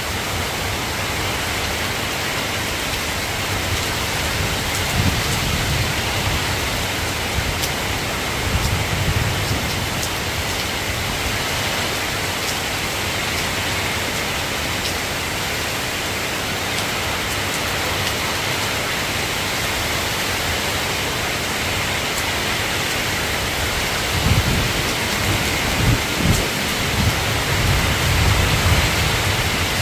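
Steady rain falling, with a few low rumbles of thunder: one about five seconds in, another a few seconds later, and a longer spell of rumbling near the end.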